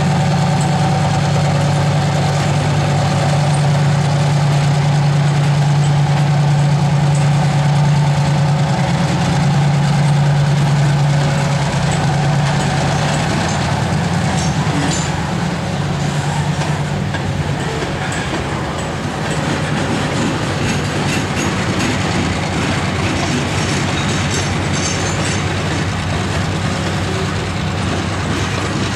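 Freight train of open hopper cars rolling past, wheels clicking and clacking over the rail joints. A low steady engine drone is loudest in the first half and fades after about twelve seconds, and the clacking grows sharper toward the end.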